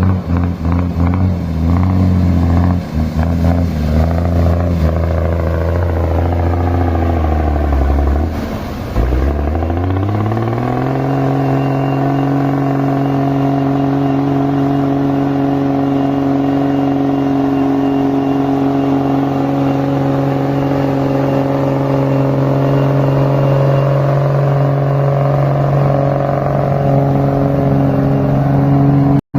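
Ford piragua truck's engine pulling under way with some clatter. Its low note dips and breaks about nine seconds in, then climbs and holds a higher, steady pitch for the rest.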